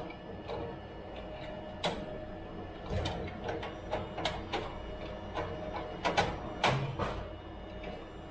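Sharp clicks and knocks of a fibre-optic media converter being handled, unplugged and plugged in, as it is swapped out in an equipment rack. The clicks are irregular and come thickest about six to seven seconds in, over a steady hum.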